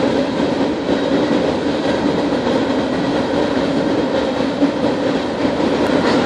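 A CSX coal train rolling past, its steel wheels making a steady, unbroken noise on the rails.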